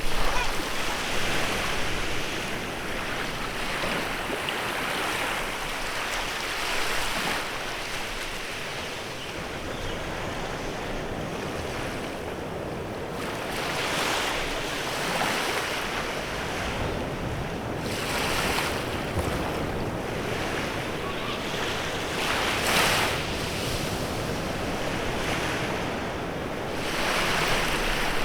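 Small waves breaking and washing up a beach, rising and falling in gentle surges every few seconds, with some wind on the microphone.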